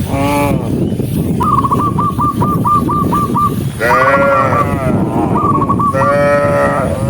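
A herd of cattle calling, with several separate calls and a quick run of short repeated high notes about four a second in between, over a steady background hubbub.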